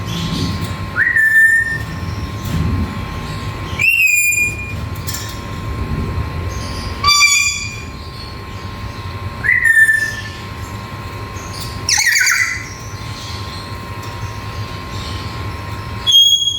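Black-capped lory calling: six loud whistled calls, each a quick upward sweep into a briefly held note, spaced every two to four seconds.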